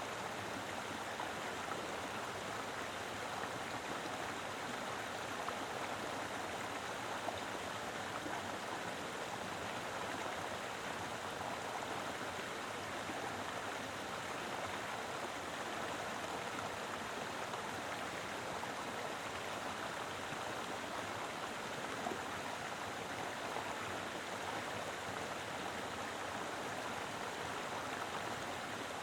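Mountain river flowing steadily, a full, even rush of water over rocks.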